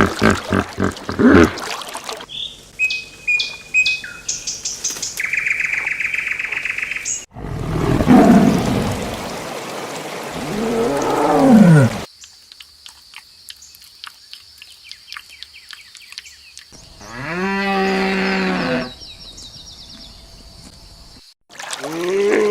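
Several different animal calls one after another, each cut off abruptly. First come short grunts, then high chirping, then a deep loud call that falls in pitch, then clicks and a high steady tone with a loud falling call in the middle.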